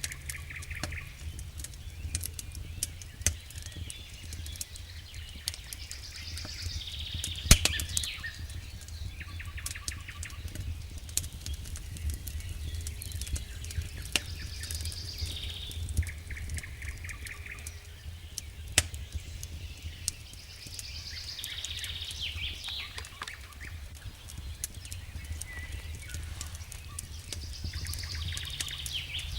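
Wood fire burning in a fireplace: irregular crackles and pops over a low, steady rumble, with one loud pop about seven and a half seconds in. High chirping calls recur every few seconds over the fire.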